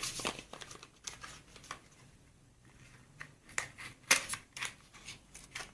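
Small clicks and rustles of a cream tube and its packaging being handled and opened by hand, the sharpest click about four seconds in.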